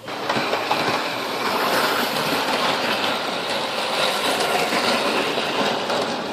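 Model train running along the track: a steady motor and wheel noise with rapid fine clicking from the rail joints.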